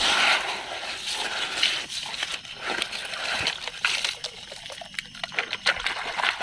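A toy dump truck being emptied and cleaned: a steady pouring, trickling hiss with many small plastic clicks and knocks.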